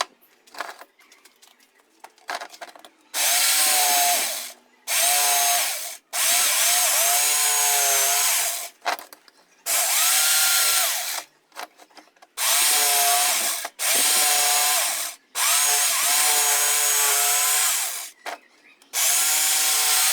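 Electric drill boring through wood in about eight short bursts, its whine dipping in pitch as it bites and picking up again between pushes, making a hole to pass the microwave motor's two terminals through.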